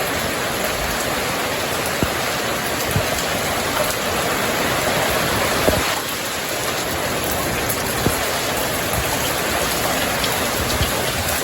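Steady heavy rain from a tropical storm, with scattered individual drops striking nearby surfaces.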